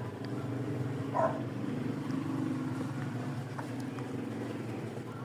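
A single short dog bark about a second in, over a steady low hum.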